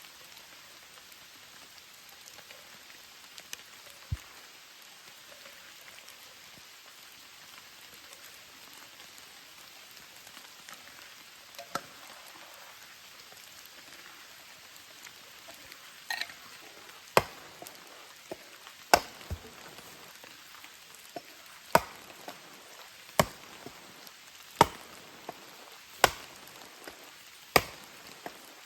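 Steady rain hiss, and from a little past halfway a series of sharp chopping blows, roughly one every second and a half.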